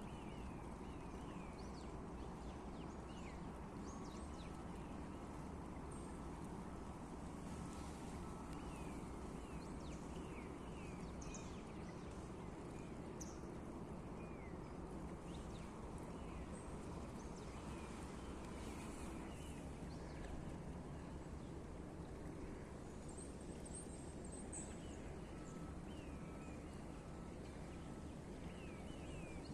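Outdoor ambience: small birds chirping now and then, short quick calls scattered throughout, over a steady low background rumble.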